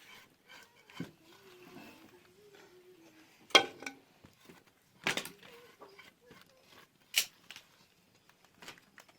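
Three sharp knocks, a second or two apart, over a faint wavering call in the background.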